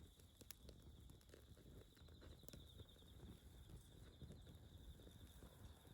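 Near silence: a faint, steady, high-pitched trill runs throughout, with a few faint sharp clicks.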